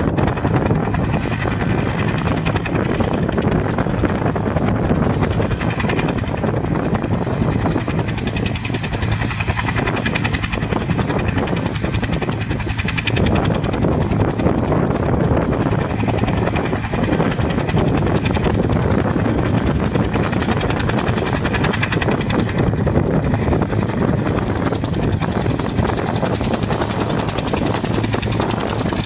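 Helicopter running steadily, its rotor and engine noise even and unbroken with a fast, regular rotor beat.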